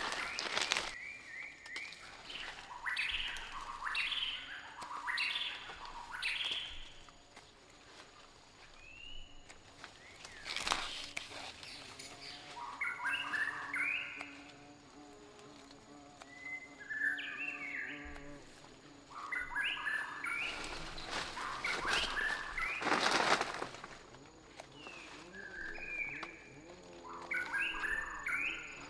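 Birds chirping in short, repeated phrases, interrupted a few times by brief, loud bursts of noise.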